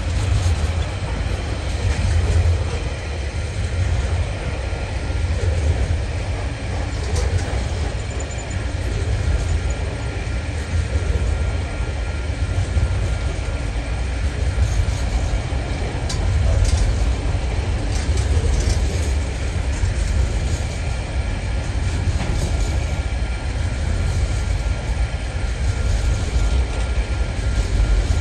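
Container flat wagons of a long freight train rolling past, a steady low rumble of steel wheels on rail with a few sharp clicks scattered through it.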